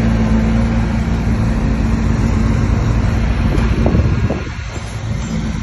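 Bulldozer's diesel engine running steadily at high power, with a deep, even hum; it eases off a little about four seconds in.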